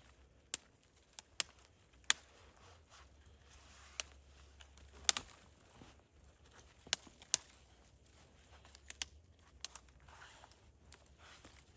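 Sparse, sharp snaps and clicks at irregular intervals, roughly one a second, over a faint low background hum.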